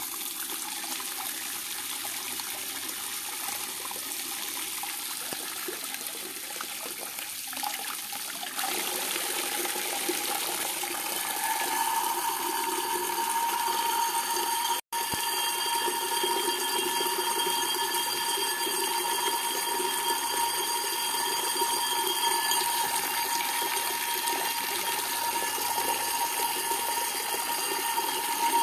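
Water running steadily, as from a tap, with a steady whistling tone joining in about a third of the way through. The sound drops out briefly just past the middle.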